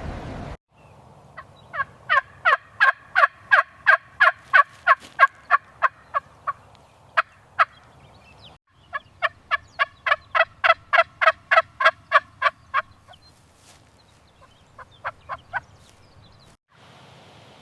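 A bird calling in long, fast runs of loud, evenly repeated sharp notes, about three to four a second. There are two runs, then a few notes near the end.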